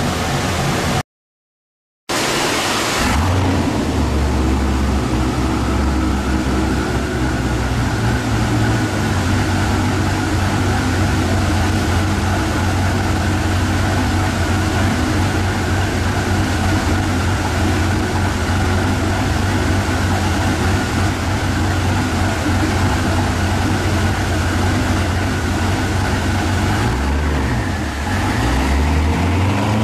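A tuned car engine running hard at a steady pitch on a chassis dyno. It cuts in after a brief silent gap about two seconds in, and near the end its pitch dips and climbs again.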